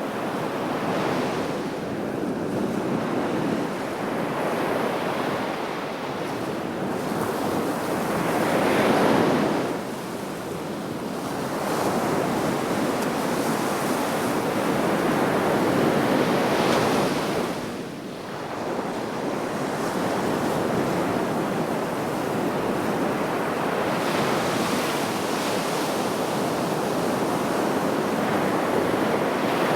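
Sea waves breaking and washing in on the shore, a steady rush that swells and falls back in slow surges, with louder waves about nine seconds in and again past the middle.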